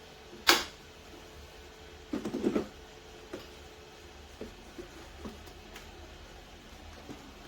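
A sharp click, then about half a second of clattering knocks, followed by a few light taps, as hard objects are handled; a faint steady hum runs under the first half.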